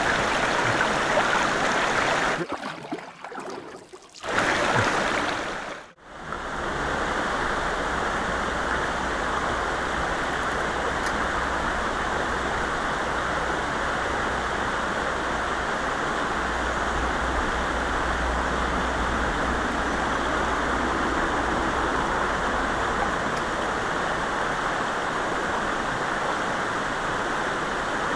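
Shallow rocky river flowing over stones: a steady rush of running water, dropping out briefly around three seconds in and again near six seconds.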